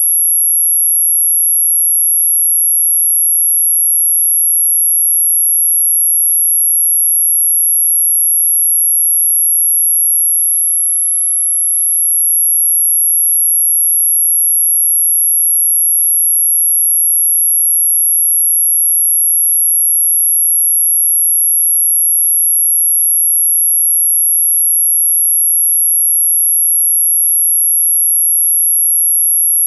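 A single, very high-pitched, steady electronic sine tone, played as an anti-mosquito repellent sound. It dips slightly in loudness about ten seconds in.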